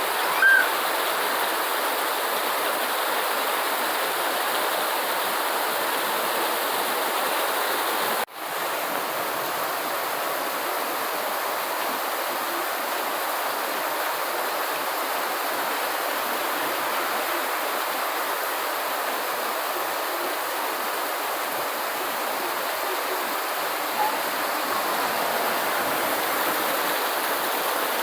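Steady, even rain noise, a continuous hiss of falling rain. A brief high chirp just after the start, and the sound drops out for an instant about eight seconds in before resuming.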